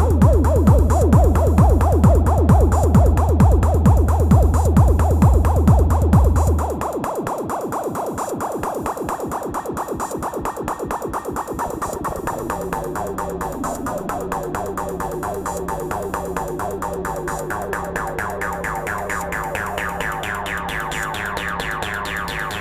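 Elektron Analog Rytm drum machine playing improvised techno: a steady heavy kick drum under fast repeating percussion. The kick drops out about six seconds in, leaving quieter rapid hits. A pulsing bass line comes in about halfway through, and the pattern grows brighter toward the end.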